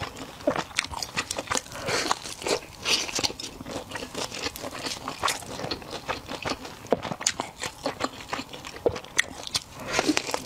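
Close-miked eating of crispy fried chicken: a dense, irregular run of crackly crunches and bites from the coating being chewed.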